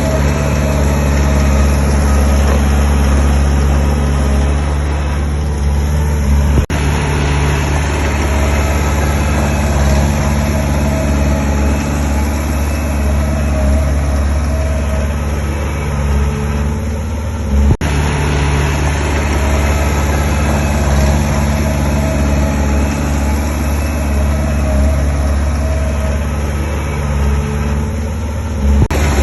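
Heavy construction-machine diesel engine running steadily under a small bulldozer's or dump truck's work, with a deep engine tone throughout, cut off for an instant twice.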